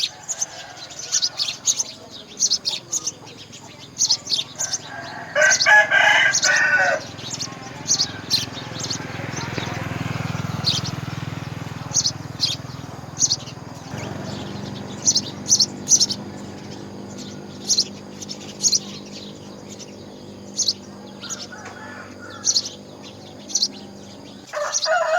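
Small birds chirping repeatedly in short, high notes, with a longer, louder call about five seconds in. A steady low hum sets in about halfway through.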